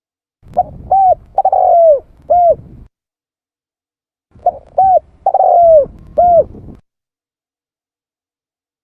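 Spotted dove cooing: two phrases of four coos, about four seconds apart. The third coo of each phrase is longer and falls in pitch.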